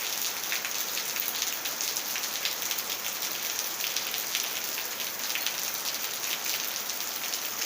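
Steady rain falling, a constant hiss with a dense scatter of small drop ticks.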